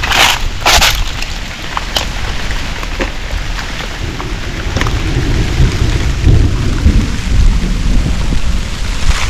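Steady rain falling, with a low rumble of thunder building about four seconds in, strongest a couple of seconds later, then fading. A few short scuffs near the start.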